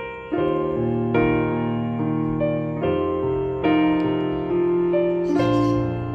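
Background music: slow, gentle piano with sustained notes and chords.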